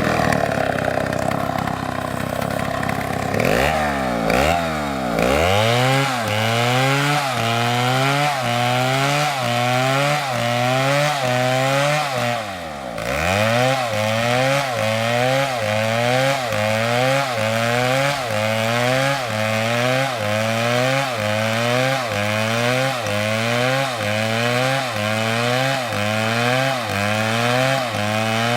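STIHL chainsaw running under load in wood, its pitch rising and falling in a steady rhythm about one and a half times a second. The pitch sags deeply and recovers about four seconds in and again near the middle.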